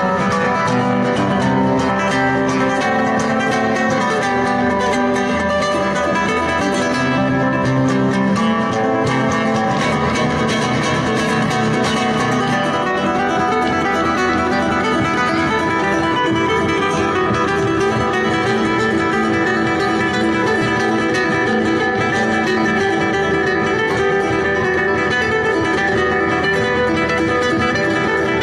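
Guitar playing without a break: a continuous stream of plucked notes and chords.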